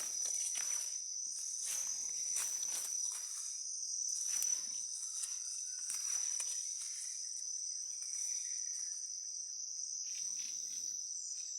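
Rainforest insects calling in a steady high-pitched drone at one pitch, with soft rustling footsteps on leaf litter in the first half.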